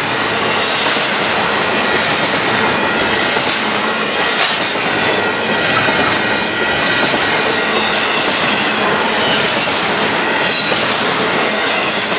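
Union Pacific intermodal container train rolling past at steady speed, its wheels clattering on the rail joints, with a thin, high squeal from the wheels against the rails.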